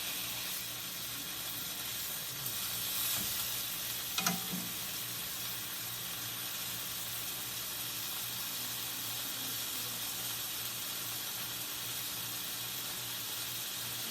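Pepper steak frying in a pan with a steady sizzle, and one short knock about four seconds in.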